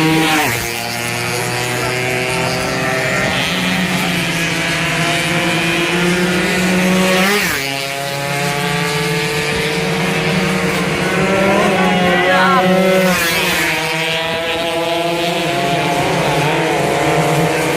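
Two-stroke road-racing motorcycles at high revs, their engine note climbing and then dropping sharply as a bike passes close. This happens three times: at the start, about seven seconds in and about thirteen seconds in, with engines running steadily in between.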